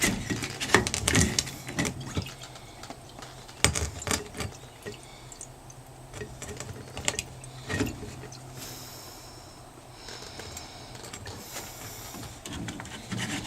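Scattered clicks, knocks and metallic clinks of hands working at a washing machine's drain and pulling small metal debris out of it, with a little water.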